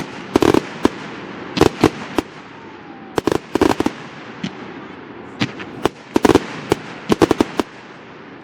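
Fireworks display going off: bursts of sharp bangs and crackling reports come in quick clusters every second or two, with single bangs in between.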